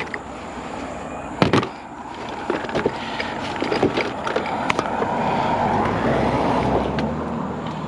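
Hands rummaging through discarded junk: scattered knocks and clicks of items being moved, with one sharp clack about one and a half seconds in, over a steady rustling noise that swells between about five and seven seconds.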